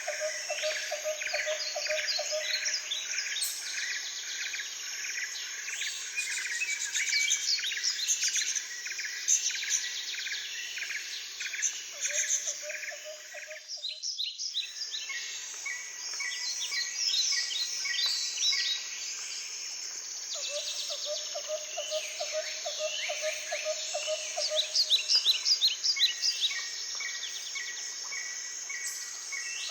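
A dense chorus of forest birds, many overlapping chirps and calls, with a lower call of rapid repeated pulses that comes and goes several times. The sound briefly thins out about halfway through.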